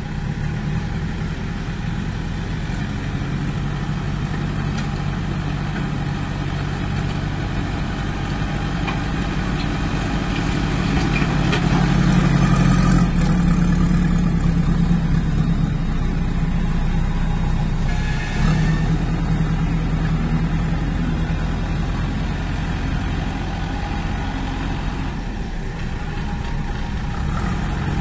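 JCB 2DX backhoe loader's Kirloskar diesel engine running steadily. It grows louder about halfway through, then eases back, with a brief hiss partway.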